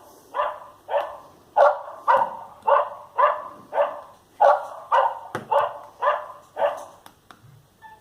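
Barking-dog ringtone of a Sagem myX5-2 mobile phone, played through the phone's speaker: a dog barks about a dozen times at an even pace of roughly two barks a second, stopping about seven seconds in.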